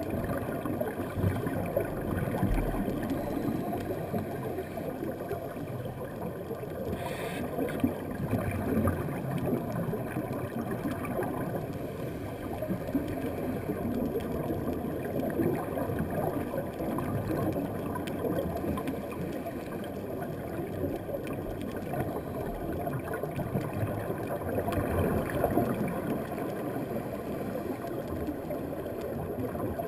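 Underwater sound picked up through a dive camera's waterproof housing: a steady, muffled low crackling rumble of water.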